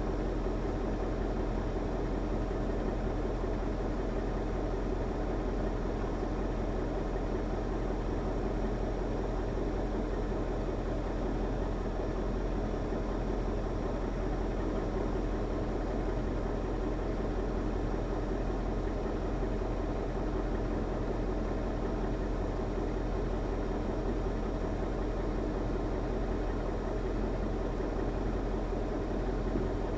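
Diesel engine of a KAMAZ timber truck running steadily at a constant speed.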